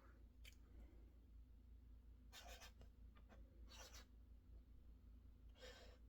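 Faint scratching of a pen writing on paper: three short strokes about a second apart, with a couple of light ticks near the start.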